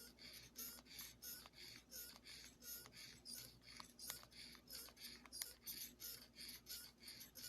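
Close-miked wet eating sounds of creamy chicken ramen noodles: quick chewing and slurping, about four soft, squelchy bursts a second with little squeaks among them.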